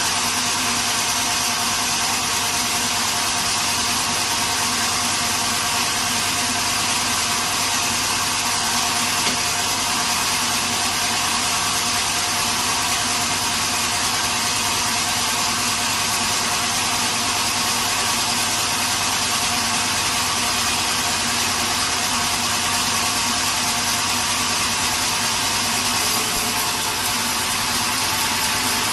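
Sawmill machinery running steadily: a constant mechanical noise with a high hiss and a few steady tones, unchanging throughout.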